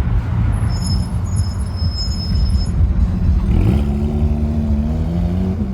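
Low rumble of car engines, and about three and a half seconds in one engine rises in pitch and then holds a steady drone, as a car pulls away.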